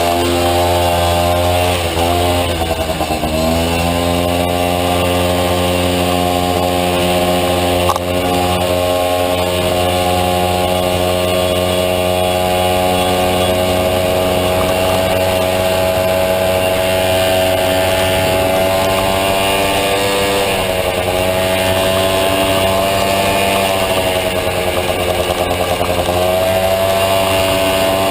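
Honda Motocompo scooter with a Honda Dio two-stroke engine running hard at high revs. Its pitch dips and climbs back about two seconds in, around twenty seconds in and again near the end.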